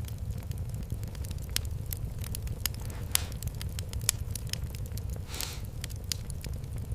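Fireplace fire crackling, with irregular sharp pops over a steady low rumble and two brief hisses, about three seconds and five and a half seconds in.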